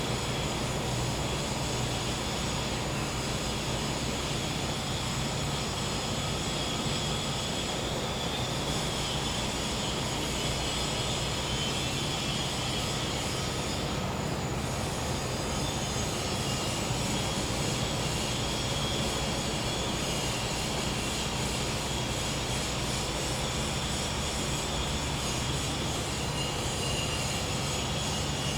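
Gas-powered generator running with a steady, noisy hum, under a continuous high-pitched chorus of insects that briefly dips about halfway through.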